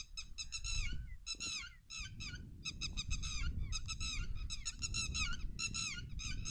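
Birds calling over and over in quick, high chirps, several notes a second, over a low rumble.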